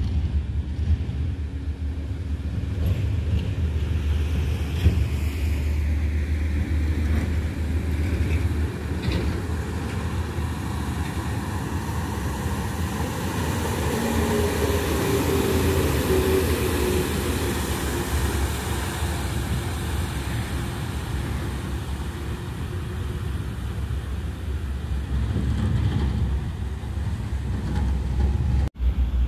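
Heavy diesel truck engines running, with road noise; the sound swells and falls in pitch about halfway through as a truck passes.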